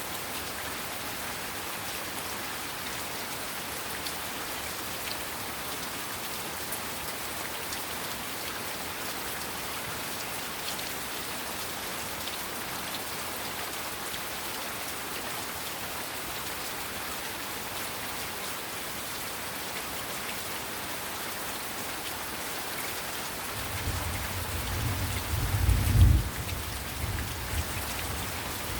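Heavy rain falling steadily as an even hiss. Near the end a low rumble of thunder builds for a few seconds, peaks sharply, and dies away.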